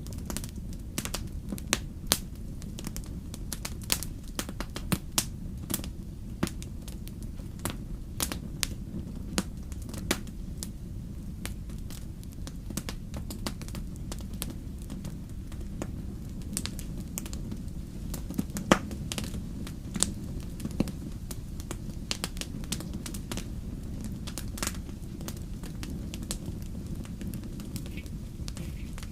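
Wood fire crackling: irregular sharp pops and snaps over a steady low rumble, with one louder pop a little past the middle.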